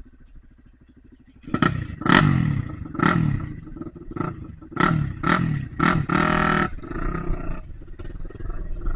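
Dirt bike's single-cylinder engine idling, then blipped hard about eight times in quick succession, the pitch jumping up and falling back after each blip, before settling into a steadier run.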